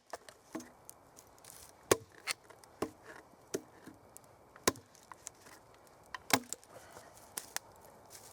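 Axe chopping wood: a run of sharp, irregular strikes, about a dozen, roughly half a second to a second apart. The loudest blows fall about two seconds in and again past six seconds.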